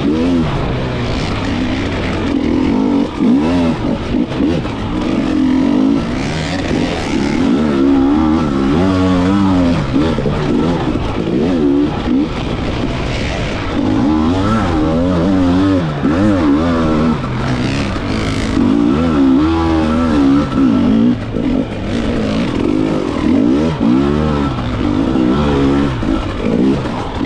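Dirt bike engine revving hard and continually under racing. Its pitch swings up and down every second or so.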